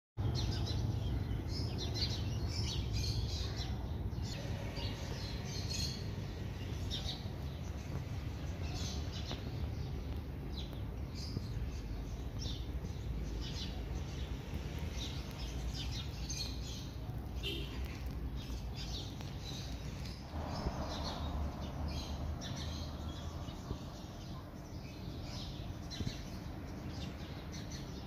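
Small birds chirping in many short, high calls over a low steady rumble.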